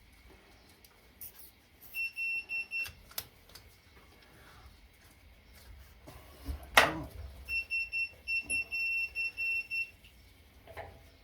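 Wheel balancing machine beeping: a run of about four short, high electronic beeps, then a longer run of about eight. Between them comes a single loud knock.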